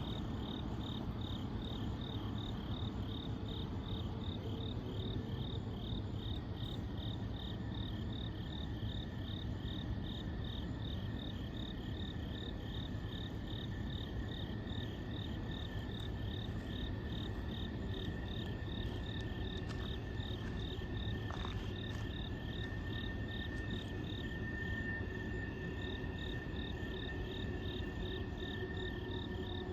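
Night insects chirping in a fast, even pulsing rhythm, with a fainter steady high drone behind them and a low, steady rumble of background noise underneath.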